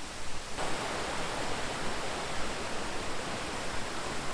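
Steady rushing of a waterfall and stream, growing suddenly fuller and brighter about half a second in.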